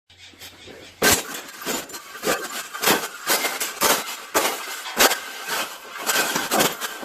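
A wire bird cage being banged on: a run of sharp knocks and rattling clatter, about two a second, with the hardest hits about a second in and at five seconds.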